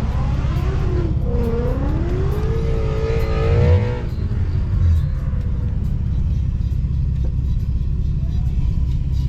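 Manual Nissan Altima's engine revving up for about three seconds, then dropping off sharply, as if on a gear change or lift-off, with a brief smaller rev a second later. A steady low engine and road rumble runs underneath.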